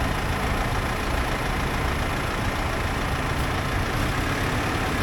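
Tractor engines running steadily as a procession of tractors drives past.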